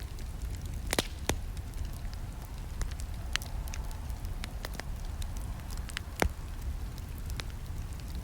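Wood campfire crackling: irregular sharp pops and snaps over a steady low rumble of the burning flames, with the loudest pops about a second in and about six seconds in.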